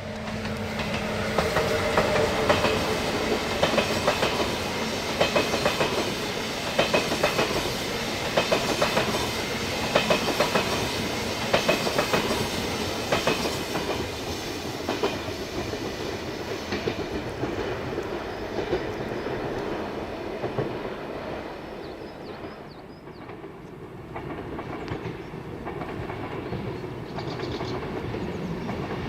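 Train passing on the line, its wheels clicking over the rail joints in a steady rhythm over a continuous rumble. The clicks are strongest in the first half; the sound eases a little later on, then builds again near the end.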